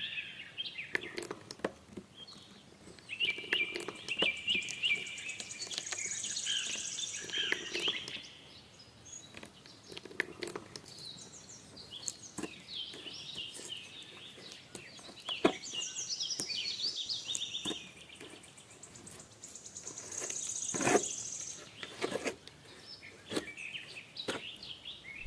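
Birds chirping on and off, with scattered light clicks.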